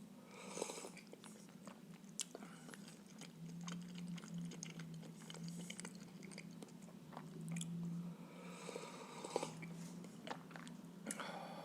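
Close-miked chewing and biting of soft stuffed blini, with scattered wet mouth clicks. A low steady hum sits underneath.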